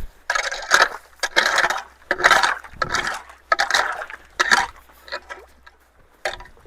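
Crunching and rustling of dry leaves and sticks in a run of separate bursts, about one or two a second, thinning to a few light clicks near the end.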